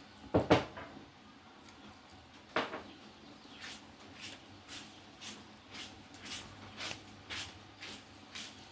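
Someone eating a bowl of noodle soup. Two louder knocks come first, then steady chewing at about two bites a second.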